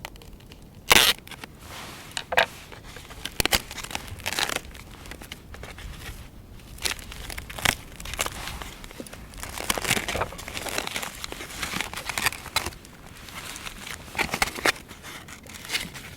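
Irregular crinkling and rustling, broken by sharp clicks and knocks. The loudest knock comes about a second in.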